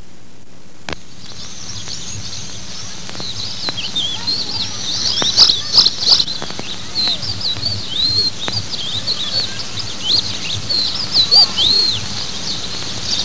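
Many small birds chirping and twittering, quick overlapping calls that start about a second in, over the steady low hum and hiss of an old videotape soundtrack.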